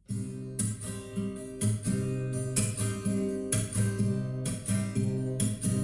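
Acoustic guitar strummed in a steady rhythm: the instrumental intro of a song, before the singing comes in.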